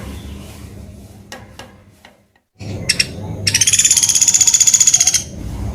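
Pelatuk beras woodpecker giving a rapid, even trill of high notes lasting under two seconds, starting a little past halfway, after a brief drop in sound.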